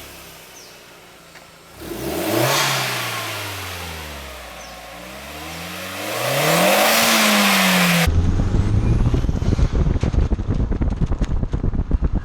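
Skoda Octavia vRS engine with a Milltek exhaust idling, then revved twice: the pitch jumps up about two seconds in and sinks slowly, then climbs again and drops back. About eight seconds in, the sound cuts suddenly to loud wind buffeting on the microphone.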